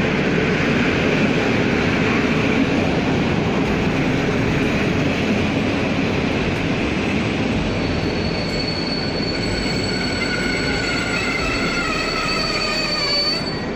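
PKP Intercity passenger coaches rolling past along the platform track, a steady loud rumble of wheels on rail that slowly fades. In the second half the wheels start to squeal: a thin steady high whistle, then several wavering squeals beneath it that cut off just before the end.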